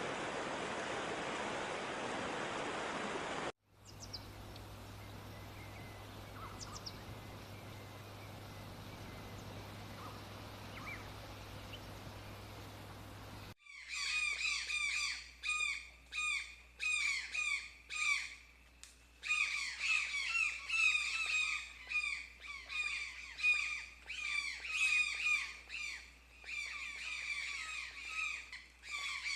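A steady rushing noise cuts off after about three and a half seconds to quiet forest ambience with a few faint bird chirps. About thirteen seconds in, birds start squawking loudly and repeatedly in quick bursts with short gaps.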